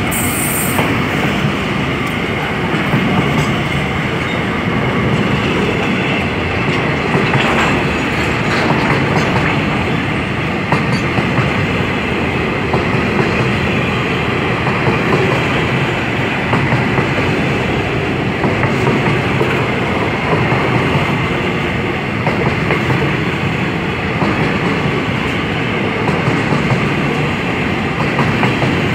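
Covered hopper wagons of a freight train rolling past close by: a steady rumble of steel wheels on the rails with clickety-clack over the rail joints.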